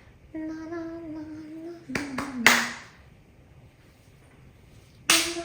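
A person singing a held wordless note, then three hand claps about two seconds in, the last the loudest. Near the end another clap and a new sung note begin.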